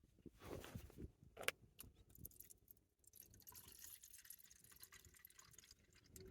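Near silence with a few faint, short clicks in the first couple of seconds and light rustling after.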